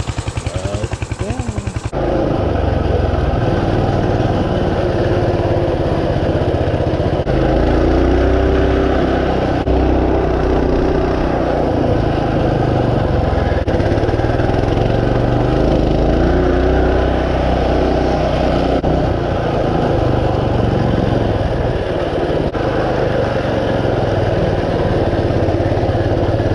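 Mini bike engine running under way, its pitch rising and falling with the throttle.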